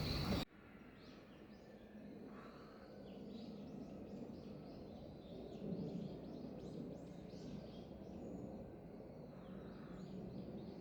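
Faint, short, high chirps of small birds calling repeatedly over a quiet background. It opens with a brief loud rush of noise that cuts off abruptly about half a second in.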